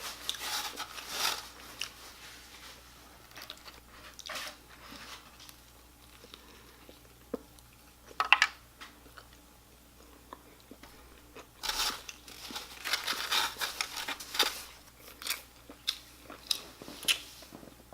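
A person biting and chewing crunchy fried food close to the microphone, in irregular bursts of crunching with quieter chewing between.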